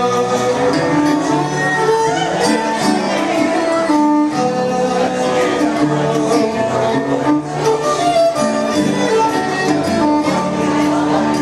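Live string band playing an instrumental passage without vocals, a fiddle carrying held melody notes over guitar.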